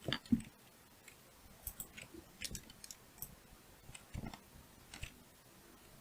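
Scattered faint clicks of a computer keyboard and mouse being worked, with two sharper clicks at the start and then single clicks every half second to a second.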